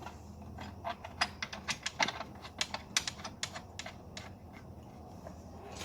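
Irregular run of sharp clicks and light rattles from parts being handled and worked into place in an engine bay, thickest about one to three and a half seconds in.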